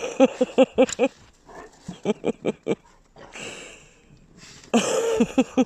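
Puppy barking in quick, short yaps, in three bursts, typical of puppies squabbling or play-fighting.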